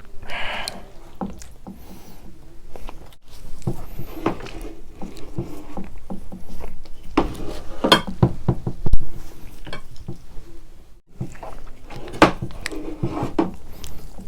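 Close-miked eating of thick, creamy spicy carbonara noodles: irregular slurps, chewing and wet mouth clicks, with a sharp click about nine seconds in.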